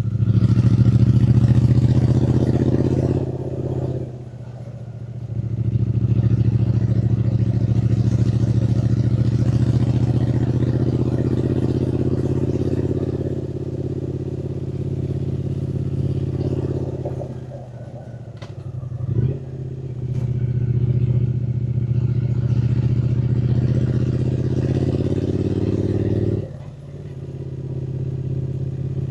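Triumph Speed Twin 900's parallel-twin engine running under throttle on the move. The throttle closes briefly about four seconds in, again around eighteen seconds with a quick blip of revs, and near the end.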